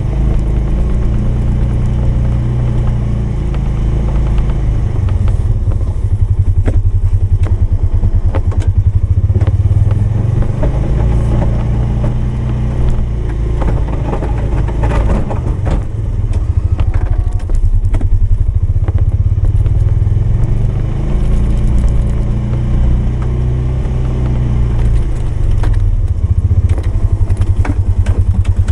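Polaris 570's engine running under load while plowing snow, its pitch rising and falling repeatedly as the machine accelerates and slows, with occasional clunks.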